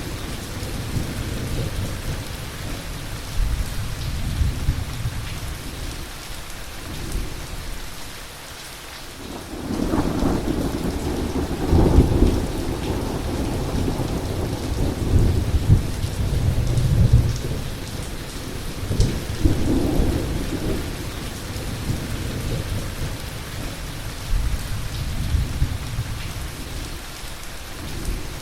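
Heavy, steady rain with rolling thunder. Low rumbles swell and fade several times, and the loudest peal builds about ten seconds in.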